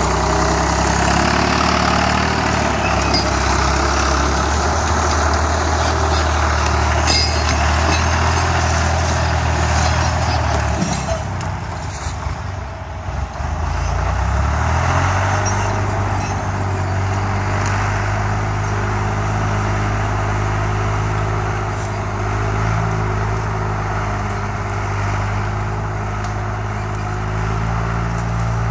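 A heavy vehicle's engine running steadily. About eleven seconds in its note drops and the level sags, then it climbs back to a steady, slightly higher note a few seconds later, as with a gear change or a change of load.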